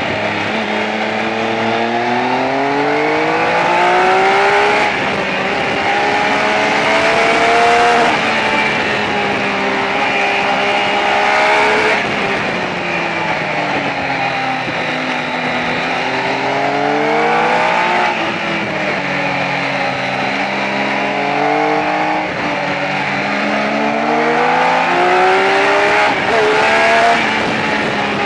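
Triumph Speed Triple's 1050 cc inline three-cylinder engine heard from onboard, pulling hard as the bike accelerates: the revs climb and then drop back at each gear change, again and again. Wind rush runs underneath.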